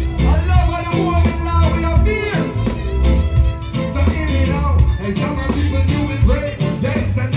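Live reggae band playing with a heavy, pulsing bass line, a singer's voice over it.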